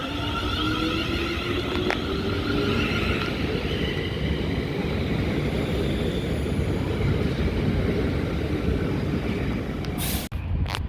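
Train moving past on the platform line: a steady heavy rumble of wheels on rail, with a rising motor whine in the first couple of seconds. Near the end the sound cuts out briefly and a few sharp clicks follow.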